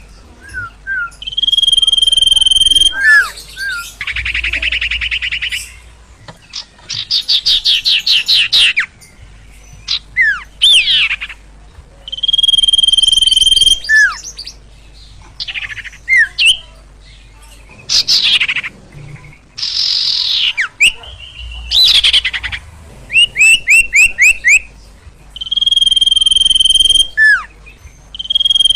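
A sirtu bird singing energetically in a varied sequence of phrases: level whistled notes about a second long, fast chattering trills, and quick downward-sweeping notes, broken by short pauses. The same phrase types come back again and again.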